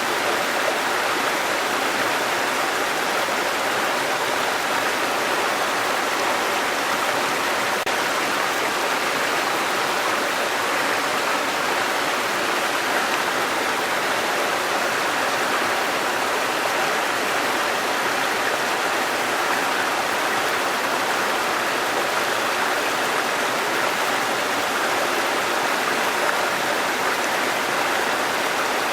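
Waterfall and running stream water, a steady rushing splash that holds even throughout.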